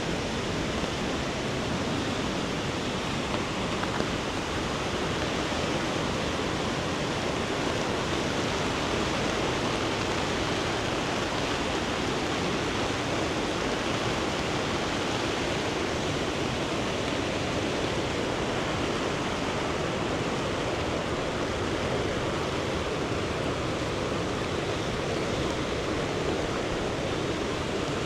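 Steady rushing of a flooded, fast-flowing river: an even, unbroken noise that does not change.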